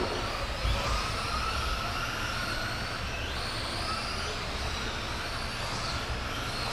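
Radio-controlled racing trucks running on the track, their motors whining and rising and falling in pitch as they speed up and slow down.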